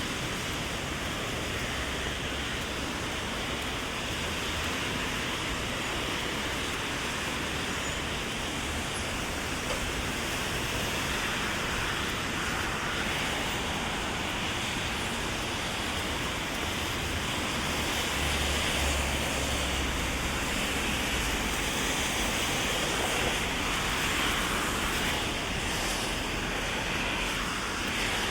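Heavy rain falling steadily on an umbrella and the wet street, with a low rumble of passing traffic that swells about two-thirds of the way through.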